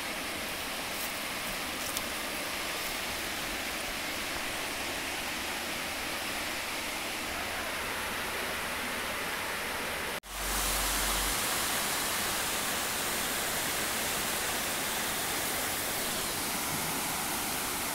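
Waterfall rushing as a steady roar of water. About ten seconds in it breaks off for a moment and resumes louder, with a brief low rumble just after.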